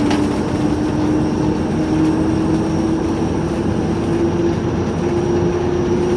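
TEP70 passenger diesel locomotive running under way, heard from inside its cab: a steady loud running noise from its V16 diesel, with a strong tone that slowly rises in pitch as the locomotive gathers speed and a faint steady high whistle above it.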